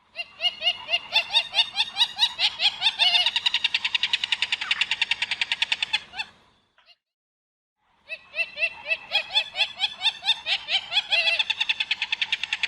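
Jacana calling: a fast chattering series of sharp, repeated notes that speeds up over about six seconds, then after a short pause the same series begins again.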